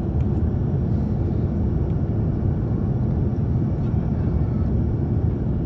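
Steady low rumble of airliner noise heard from inside the cabin of an Airbus A350-1000, unbroken with only a few faint ticks.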